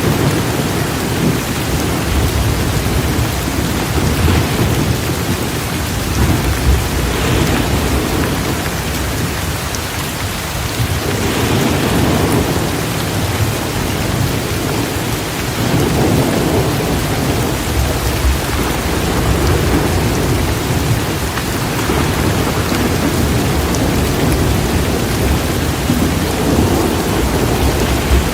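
Torrential rain pouring steadily in a thunderstorm, with low thunder rumbling and swelling several times underneath.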